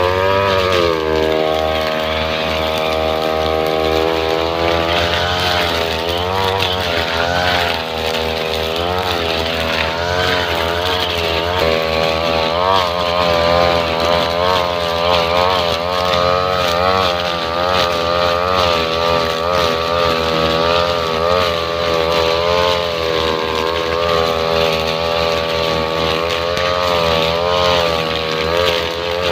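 Two-stroke brush cutter engine running with a nylon-line trimmer head. Its pitch drops at the start and holds steady for a few seconds, then rises and falls continually as the revs change.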